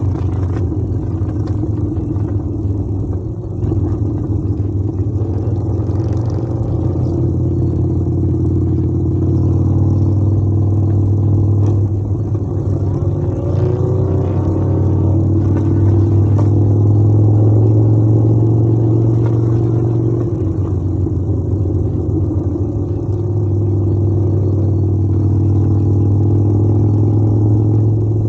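Harley-Davidson V-twin motorcycle engine running steadily, its pitch drifting slightly up and down.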